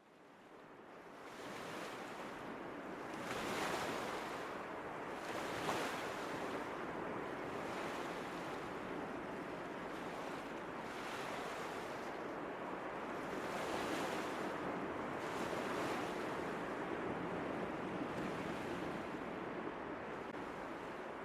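Ocean surf: waves breaking and washing in, with a louder surge every few seconds. It fades in from silence over the first couple of seconds.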